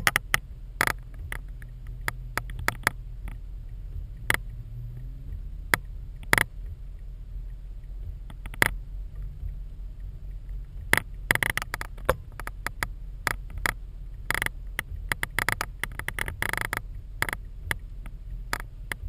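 Raindrops tapping irregularly on a GoPro's waterproof housing, sparse at first and coming thicker after about ten seconds, over a steady low rumble.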